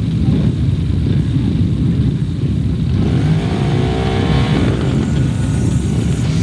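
A field of 750 cc four-stroke motocross bikes racing: a loud, dense din of engines, with one engine clearly rising and then falling in pitch about three to five seconds in.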